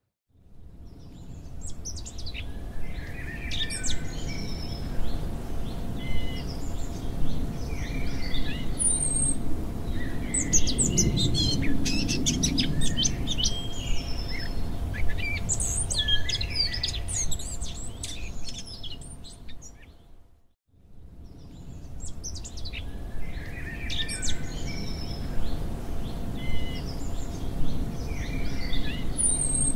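Looped nature-sounds recording of many wild birds chirping and calling over a low steady rumble. It fades to a moment of silence about two-thirds of the way through, then starts again with the same birdsong.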